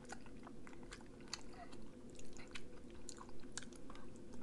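A person chewing food close to the microphone: soft, irregular wet mouth clicks and smacks, a few a second.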